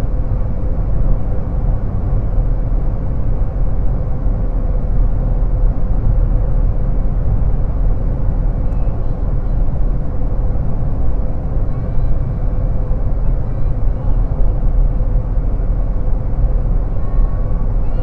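Steady low rumble of car and road noise on a highway, with a constant hum running through it.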